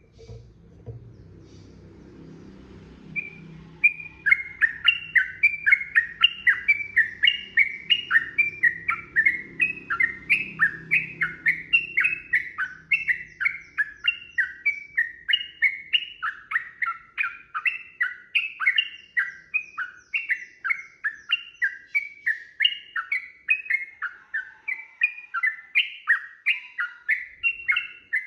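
Yellow-vented bulbul (trucukan) singing a long unbroken run of short, quickly repeated chattering notes, about three a second, starting a few seconds in.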